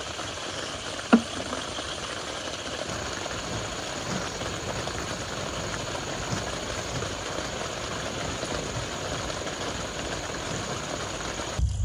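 Steady heavy rain falling, with one sharp click about a second in.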